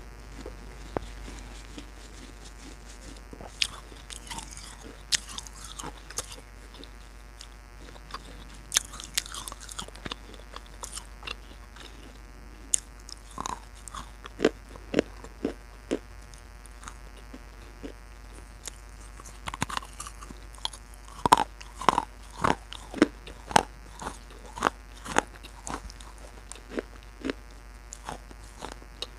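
Crunching and chewing close to the microphone: a series of irregular sharp crunches, heaviest in a run of loud ones past the middle.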